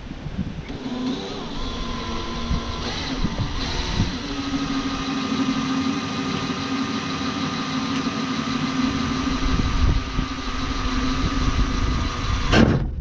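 Electric drill running with a small bit, drilling a pilot hole through the steel fender sheet metal: a steady motor whine that shifts up slightly about three seconds in and stops abruptly near the end.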